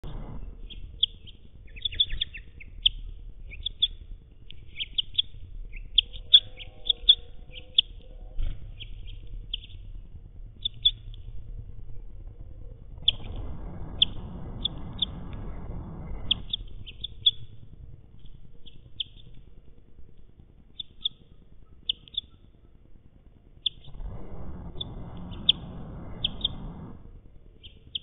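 A small songbird chirping: short, high, sharp notes, repeated about once or twice a second in loose runs. A low rushing noise comes in twice, about 13 seconds in and again about 24 seconds in, each time for some three seconds.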